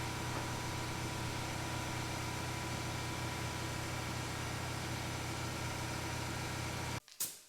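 A motor running with a steady, even hum, which cuts off suddenly near the end, followed by a brief sharp click.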